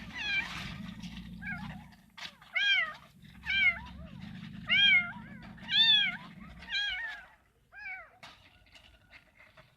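Kitten meowing repeatedly, about eight short high-pitched cries roughly once a second, over a low steady hum that stops about two-thirds of the way through.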